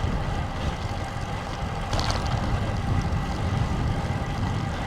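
Wind buffeting a bicycle-mounted action camera's microphone, a steady low rumble, with tyre noise from the road bike riding into gusts. A brief click about two seconds in.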